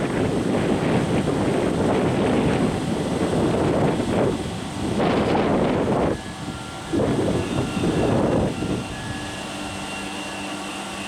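Train rumbling loudly in uneven surges, dropping briefly about four and a half seconds in and again around six seconds, then settling near the end to a quieter steady hum with faint whining tones.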